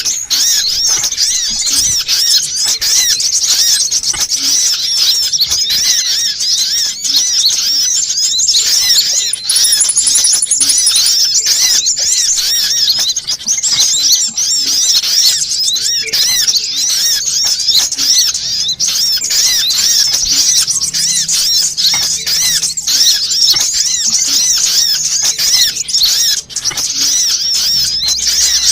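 Sunbird lure call played as a dense, continuous stream of rapid, high-pitched chirps and squeaks.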